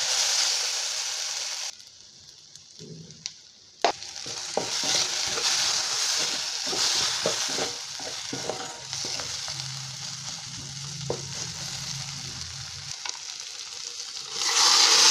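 Tempering of shallots, curry leaves and red chillies sizzling in hot oil in a stainless steel kadai while a wooden spatula stirs it, with many small clicks and scrapes of the spatula on the pan; the sizzle drops away for about two seconds near the start. Near the end the sizzle jumps much louder as the wet cooked chayote and dal mixture is poured into the hot oil.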